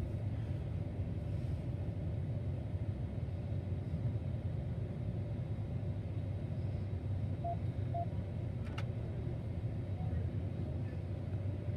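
Car engine idling, a steady low rumble heard from inside the cabin with the windows up. Two short faint beeps come about seven and a half seconds in.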